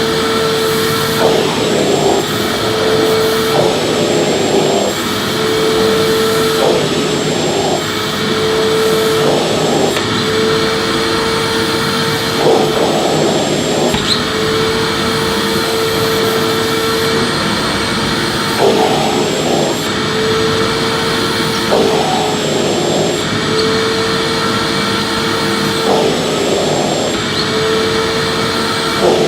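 Electric vacuum cleaner running with a steady whine, being swept back and forth over a floor, so that a brief rush of noise breaks the whine about every two to three seconds.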